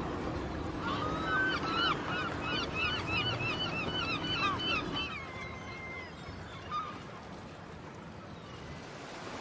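Birds giving a rapid series of short, repeated calls for about four seconds, then one longer call that falls in pitch. Under them runs a low engine rumble that fades out about five seconds in.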